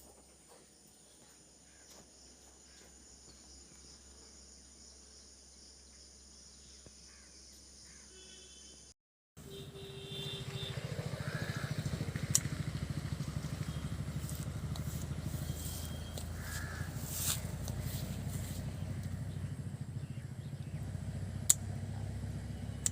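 Faint steady hum, then from about nine seconds in louder outdoor ambience with a steady low rumble and a few short calls, taken for crows cawing.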